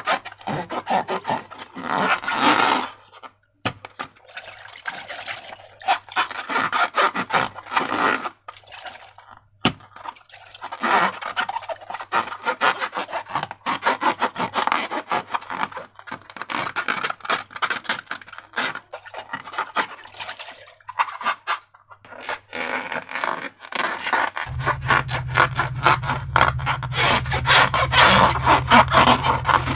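Slime being worked by hand: sticky crackling and scraping in uneven bursts.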